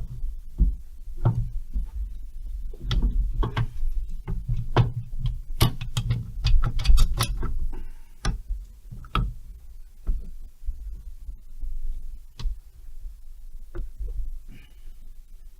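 Metal parts of a Stihl 070 chainsaw engine being worked loose and lifted off by hand: a quick run of clicks, taps and knocks for about nine seconds, then a few scattered knocks.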